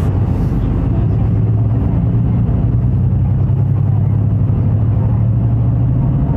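Route bus engine running steadily with a constant low drone.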